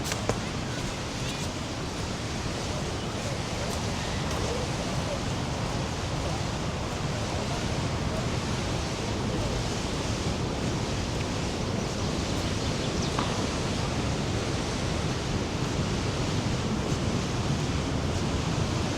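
Steady rushing of the Rhine Falls, a large river waterfall: a dense, unbroken wash of water noise that stays even throughout.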